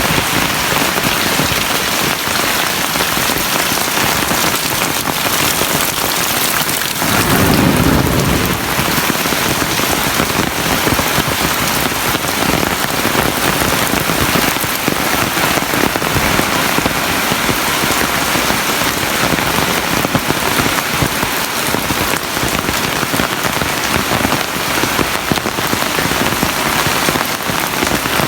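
Heavy rain falling steadily. About seven seconds in, a low rumble swells for a second or two.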